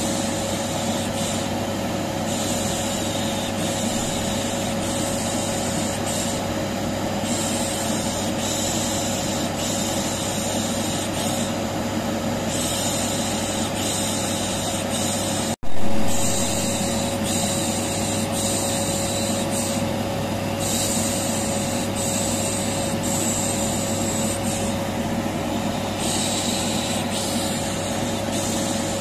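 Vacuum cleaner running steadily with a constant hum, overlaid with a long, repeated 'shh' hushing hiss that pauses briefly every few seconds: white noise for soothing a colicky baby. The sound cuts out for an instant about halfway through and starts again.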